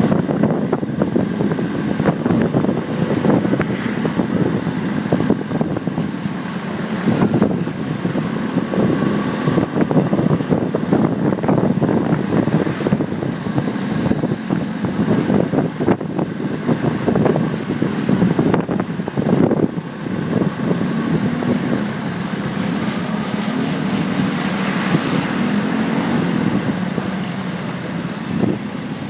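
Motorcycle engine running steadily while riding, heard close up from a phone mounted on the bike, with street traffic around it.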